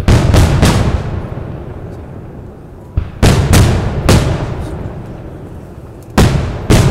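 Aerial firework shells bursting in three quick volleys of two to four sharp bangs each, about three seconds apart, each bang trailing off in an echo.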